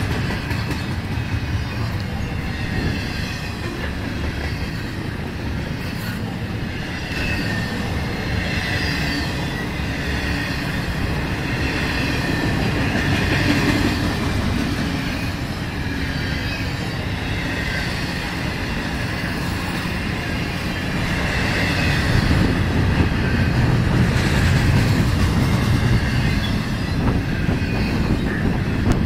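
Double-stack intermodal container train rolling past: a steady rumble of steel wheels on rail, with high wheel squeal wavering on top. It grows a little louder in the last few seconds.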